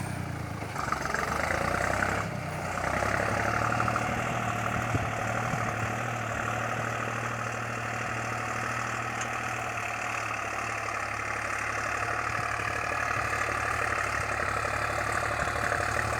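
Deutz-Fahr tractor's diesel engine running steadily at an even, low engine note.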